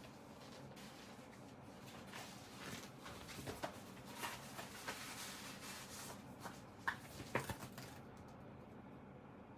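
Faint handling noise of a synthetic-leather cover being worked by hand: rustling and scraping with small taps, and two sharper clicks about seven seconds in.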